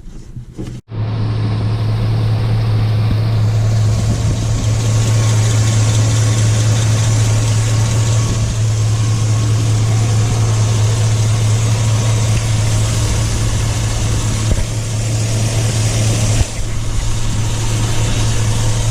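The truck's 4.8 L Vortec V8 running steadily with a strong, even low hum, starting suddenly a little under a second in.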